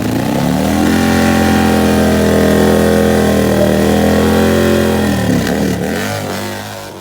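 Top fuel drag motorcycle's nitro-burning engine at full throttle, its pitch climbing over the first second, holding high, then falling away and fading over the last two seconds.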